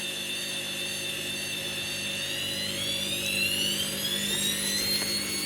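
Hoover Wizard washer dryer on its spin cycle: a high motor whine over a steady hum, the whine rising in pitch from about halfway through as the drum speeds up.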